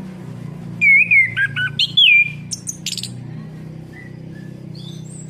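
Orange-headed thrush song: a quick run of loud, varied whistled phrases and sharp chirps from about a second in, lasting about two seconds. Softer scattered calls follow, over a steady low hum.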